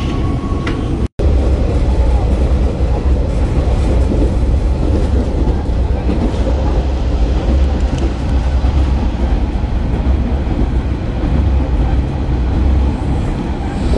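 JR Kyushu Futatsuboshi 4047 diesel railcar running at speed, heard inside the car: a steady low rumble of engine and wheels on rail, with a split-second dropout about a second in.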